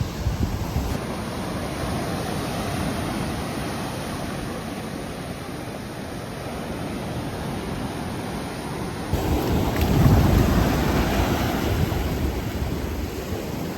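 Ocean surf breaking on the shore, a steady wash that swells louder about ten seconds in, with wind buffeting the microphone.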